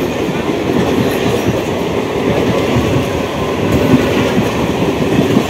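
Electric multiple-unit (EMU) local train running past close by, a steady loud rumble with the clatter of its wheels on the rails.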